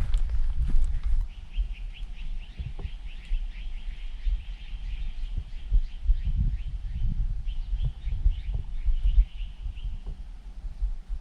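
A bird calling in a long series of quick, high chirps that starts about a second in and stops shortly before the end, over irregular low thuds.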